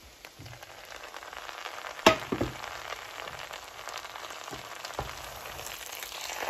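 Chicken curry and rice sizzling in a hot frying pan as the curry is added, the sizzle growing louder over the first second or so. A sharp knock sounds about two seconds in, with a few lighter knocks later.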